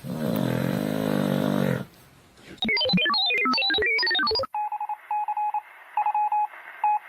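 A low sustained droning tone, then a fast run of high electronic notes jumping up and down, then a pulsing beep tone like a phone ringtone.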